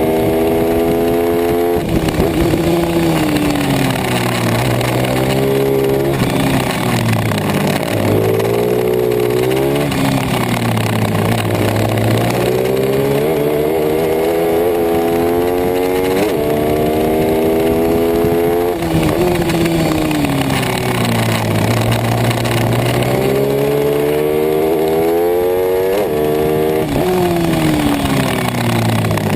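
Racing pit bike's single-cylinder four-stroke engine at full throttle, pitch climbing hard through the gears with sudden drops at each shift, then falling away as it slows for corners, over and over.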